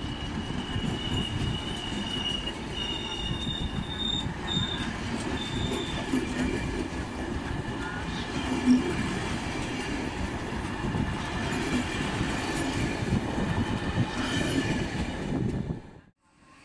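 Passenger train coaches rolling past on the rails: a steady rumble and clatter of wheels on track, with a thin high wheel squeal over the first few seconds. The sound cuts out just before the end.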